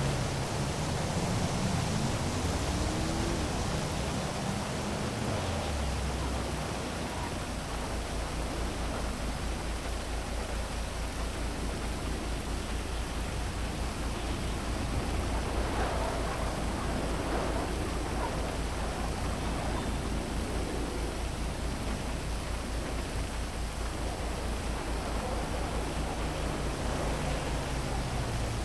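Heavy rain falling in a steady hiss over city traffic; a low engine note slides down in pitch in the first few seconds and rises again near the end, like vehicles passing.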